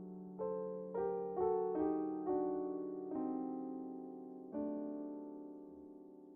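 Solo piano music: a slow melody of about seven single notes struck over a held low note, each note ringing and fading. It dies away after the last note, about two-thirds of the way in.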